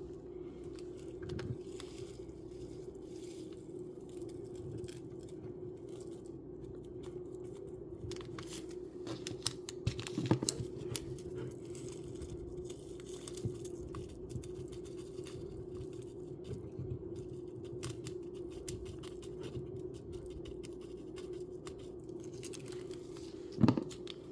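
Small plastic miniature-kit pieces being handled and fitted together: scattered light clicks, taps and rustles, busiest about ten seconds in, with a sharp click near the end, over a steady low hum.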